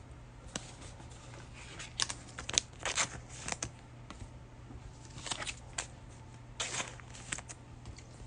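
Trading cards being handled: a series of short, soft swishes and scrapes as cards slide against one another.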